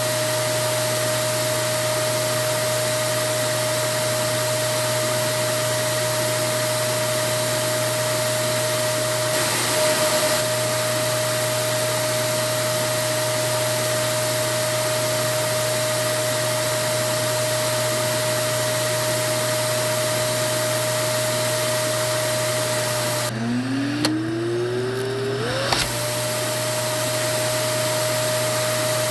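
Vacuum cleaner running steadily with a constant high motor whine over its rushing air noise. About 23 seconds in the motor note drops away, then winds back up in a rising whine over a couple of seconds to its running pitch.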